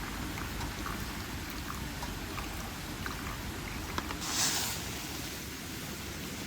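Steady rain-like noise with scattered light ticks, and a brief louder hiss about four seconds in.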